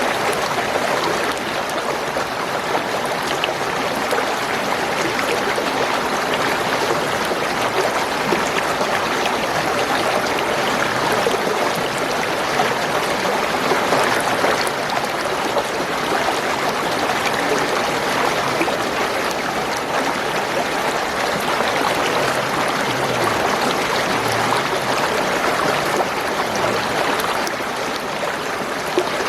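Spring water gurgling and trickling over stones in a steady stream.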